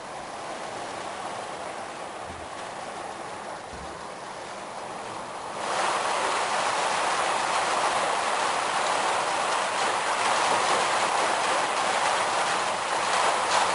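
Heavy thunderstorm rain, a steady hiss that suddenly grows much louder a little under halfway through.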